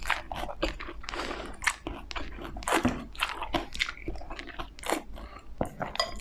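A person chewing crispy fried dumplings, with irregular crunchy bites several times a second.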